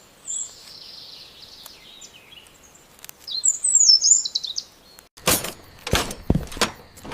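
Small birds chirping and warbling in quick high phrases, then, about five seconds in, a loud run of sharp knocks and thumps.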